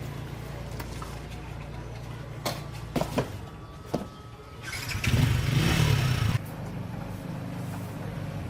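Chainsaw's two-stroke engine idling steadily, with a few sharp knocks and a louder burst lasting about a second and a half, starting about five seconds in, before it drops back to idle.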